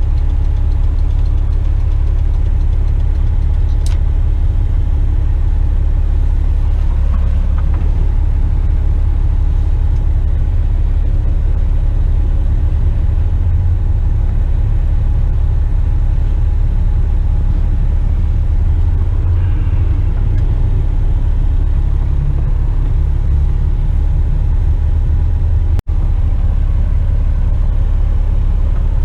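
Western Star tipper truck's diesel engine running in second gear with the exhaust brake engaged on a steep descent, heard from inside the cab as a steady low rumble. The sound cuts out for an instant near the end.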